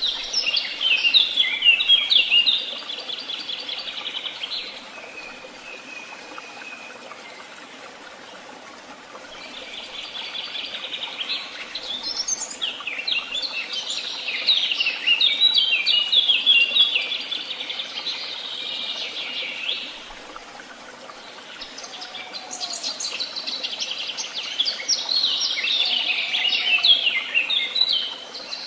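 Songbird singing in woodland: three long phrases of rapid trills and twittering notes, separated by pauses of a few seconds, over a faint steady background hiss.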